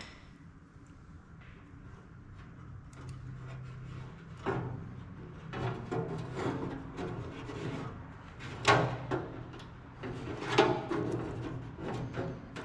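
Clunks, knocks and scraping as the pellet grill's steel parts and wiring are handled and fitted during reassembly, with two louder knocks about nine and eleven seconds in.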